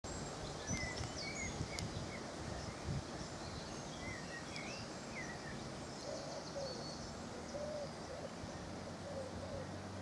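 Wild birds calling over steady outdoor background noise: many short high chirps in the first half, then a lower-pitched call repeated several times from about six seconds in. A few soft low bumps in the first three seconds.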